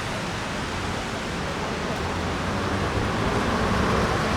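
Steady hiss of rain and wet city traffic, with a low engine hum underneath, growing a little louder near the end.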